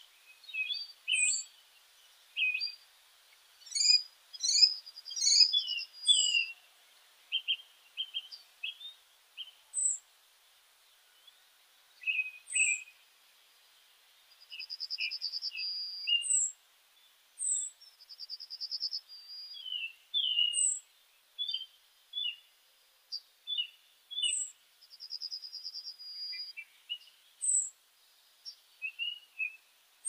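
Several songbirds calling and singing: high, thin downward chirps repeating every second or two, a few short rattling trills about a second long, and scattered quick chirps lower down.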